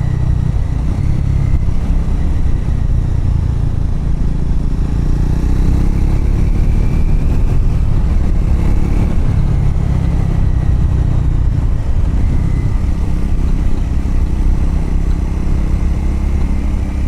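Triumph Scrambler motorcycle running steadily while being ridden, its engine note rising and falling slightly around the middle, with road noise.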